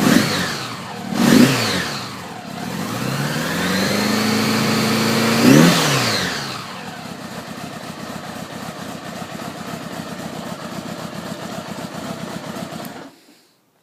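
1976 Honda Gold Wing GL1000's flat-four engine on its stock mufflers, run cold: two quick blips of the throttle, then a longer rev held for about two seconds that falls back to a steady idle. The idle cuts off suddenly near the end.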